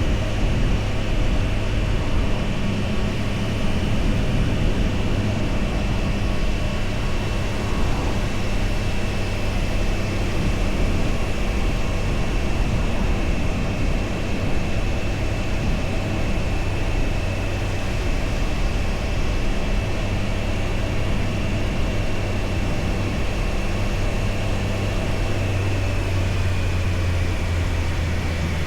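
Triumph Tiger Sport 660's three-cylinder engine running at a steady road speed, with wind and road noise. Its pitch eases down slightly near the end.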